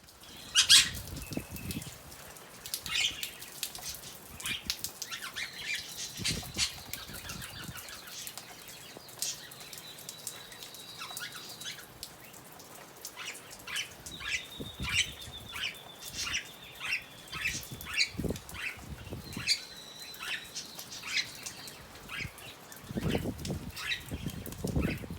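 Double yellow-headed amazon parrot flapping and shaking its wings in the rain, a run of quick rustling wingbeats and feather shakes. A thin steady high tone comes and goes twice, and heavier low thumps come near the end.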